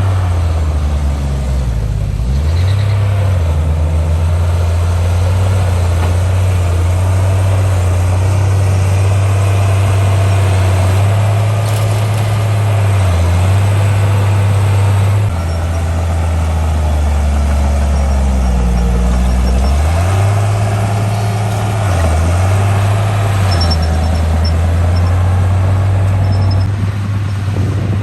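Heavy diesel engine of earthmoving machinery running loud and continuously, its pitch sagging and recovering several times as the load comes on and off.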